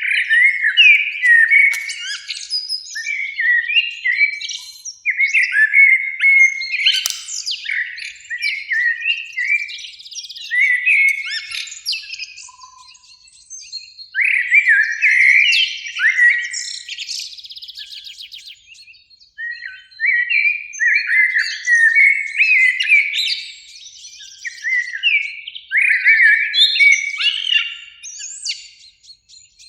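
Eurasian blackbird song: a run of fluted, gliding phrases, each ending in higher, thinner twittering, with short pauses between phrases.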